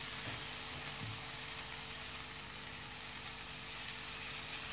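Potato fries sizzling steadily in a little hot oil in a pan as lemon juice is squeezed over them.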